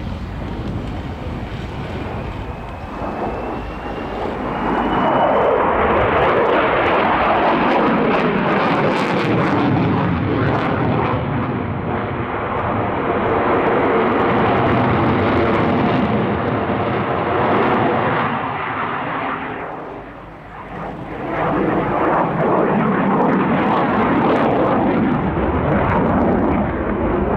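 Swiss Air Force F/A-18 Hornet's twin jet engines, loud in a display pass, with a sweeping rise and fall in pitch as the jet flies by. About twenty seconds in the sound dips briefly before a second loud pass.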